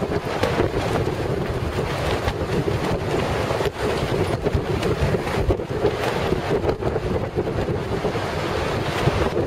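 Gale-force wind buffeting the microphone in a continuous rumbling roar, over the wash of heavy Lake Superior surf.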